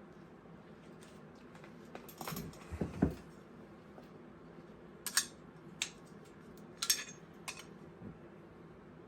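A scattered series of light, sharp metallic clinks and taps, a small cluster about two to three seconds in, then single ticks every second or so, as of small metal tools or parts being handled.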